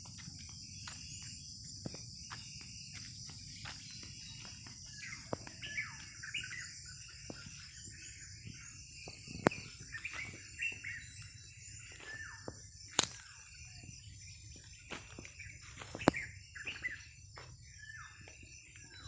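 Birds calling with many short, repeated downward-sweeping chirps over a steady high-pitched chorus of insects. Three sharp clicks stand out as the loudest sounds, about halfway through, later on and again near the end.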